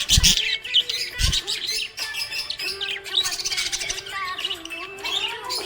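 Small pet parrots chirping and chattering in a dense run of quick, high chirps. Two short low thumps come near the start and about a second in.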